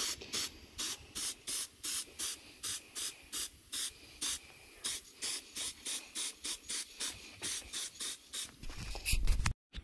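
Aerosol spray paint can hissing in short, evenly spaced bursts, about three a second, sped up as in a time-lapse.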